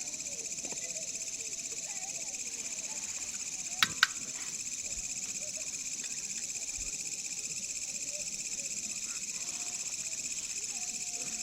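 Steady high-pitched chorus of crickets and other night insects, with two sharp clicks a fraction of a second apart about four seconds in.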